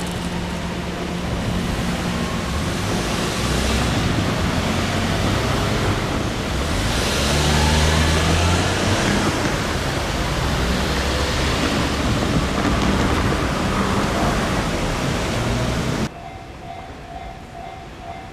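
Loud, steady rushing noise of a train passing close by, swelling about halfway through. Near the end it cuts suddenly to a quieter scene where a level-crossing warning bell chimes in a steady repeat.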